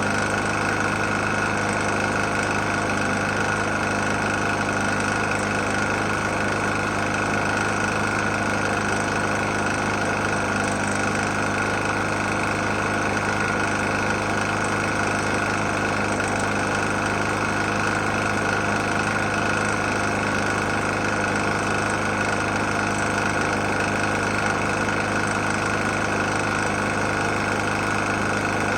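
Briggs & Stratton E450 single-cylinder lawn mower engine running steadily at a constant speed with a knock, an engine that had been run with almost no oil.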